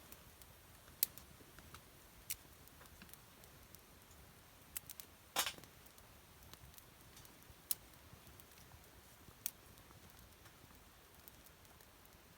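Campfire crackling: sparse sharp pops and snaps of burning wood, about half a dozen in twelve seconds, the loudest a little after five seconds in, over a faint steady hiss.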